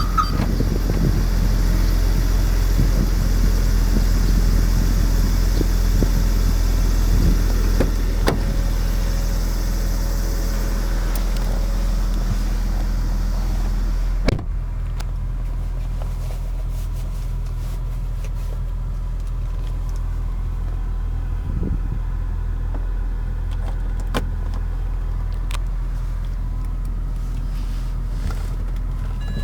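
BMW E90 engine idling steadily. A single thump about halfway through, after which the sound turns quieter and duller, with the idle hum still going.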